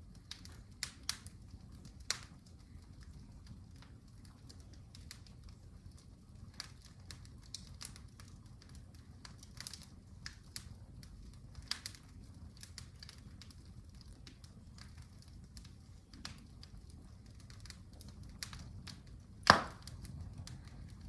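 Wood fire crackling, with irregular small pops and one sharp, much louder pop near the end, over a steady low rumble.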